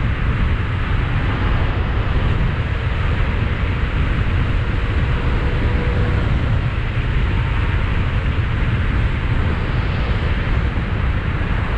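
Wind rushing over a helmet-mounted camera's microphone while riding an electric bike: a steady, loud low rumble.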